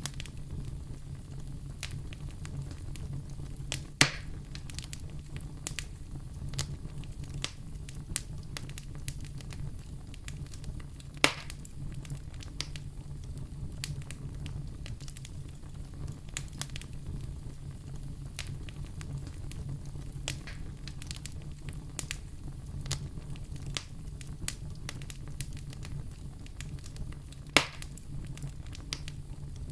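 Wood fire crackling in a fireplace: a steady low rumble of the flames under frequent small snaps, with three louder pops about 4, 11 and 27 seconds in.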